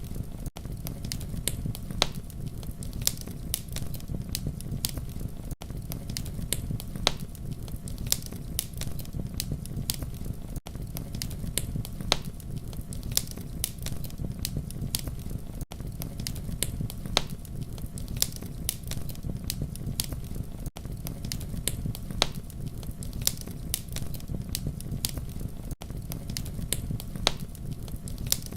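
Campfire burning with a steady low rumble and frequent sharp crackles and pops. The sound drops out briefly about every five seconds.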